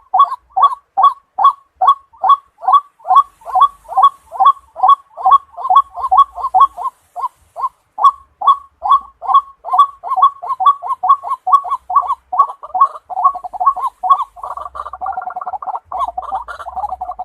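White-breasted waterhen calling in a monotonous series of short, repeated 'ruak' notes, about three a second. Near the end the notes crowd together and run into one another.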